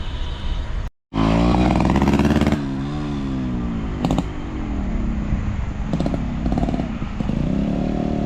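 Yamaha RX100's air-cooled two-stroke single-cylinder engine running and being revved, its pitch rising and falling with the throttle, loudest just after a second in.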